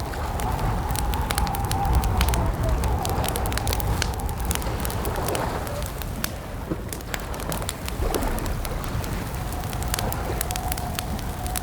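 Campfire crackling: frequent sharp pops and snaps over a low rumble. Underneath runs a long, wavering, hum-like tone that dips in pitch twice in the middle before settling again.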